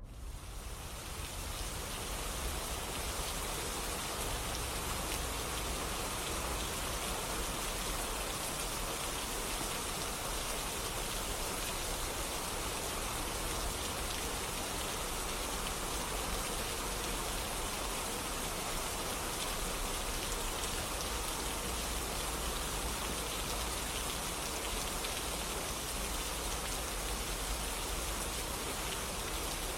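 Steady rain falling, fading in over the first second or two from near silence.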